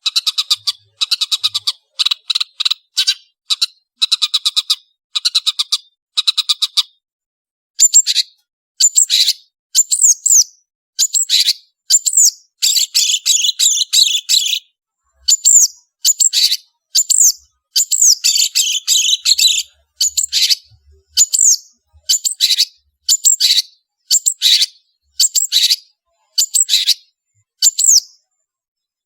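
Long-tailed shrike song: about seven seconds of fast, rattling pulsed trills, then a run of sharp, swooping whistled notes roughly once a second with dense scratchy chattering phrases in between.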